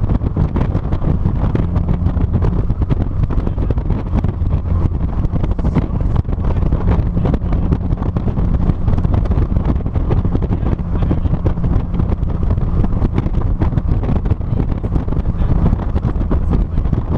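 Heavy wind buffeting the microphone of a camera mounted on the trunk of a moving 2006 NC Mazda Miata, a steady loud rumble with the car's engine and road noise humming underneath.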